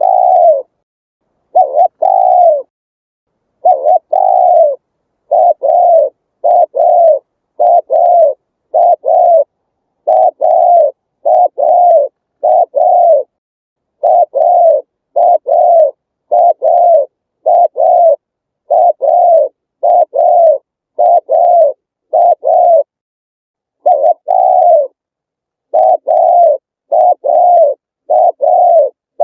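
Spotted dove cooing steadily: a long series of short, arched coo notes, mostly in close pairs and threes with brief pauses between the groups.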